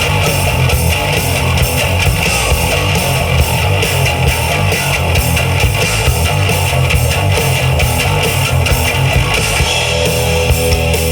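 Live rock band playing loud: distorted electric guitars over bass guitar and a steady drum beat. Around ten seconds in, the bass and drum weight drops briefly and a few held guitar notes stand out.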